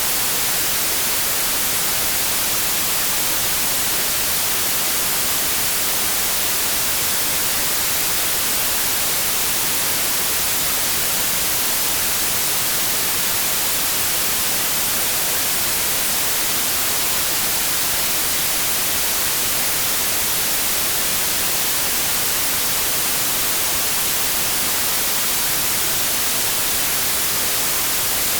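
Synthetic white noise: a steady, even hiss, brighter toward the top, with no change or events.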